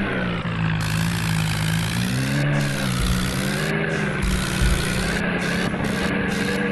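John Deere tractor's diesel engine running. Its pitch drops just after the start, rises again about two seconds in, then holds steady.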